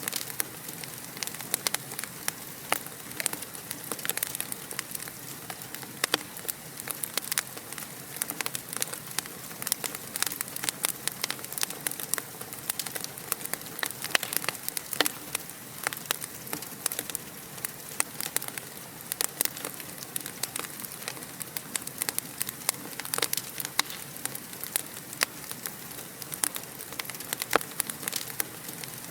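Fire crackling steadily: frequent sharp pops and snaps, several a second, over a continuous soft hiss.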